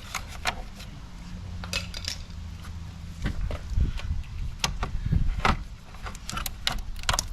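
Irregular clicks, knocks and rattles of plastic and metal parts being worked loose by hand during front-end disassembly, over a low steady hum.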